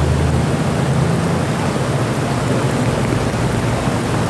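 Steady rush of heavy rain, with a low steady hum underneath.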